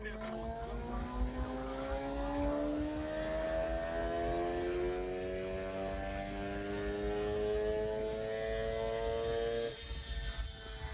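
Engine running with a smooth, steady pitch that climbs slowly for about ten seconds, then drops away abruptly near the end, leaving a fainter steady hum.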